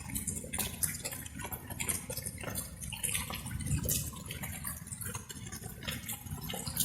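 Light rain: drops falling and dripping at an irregular, quick pace over a steady low rumble.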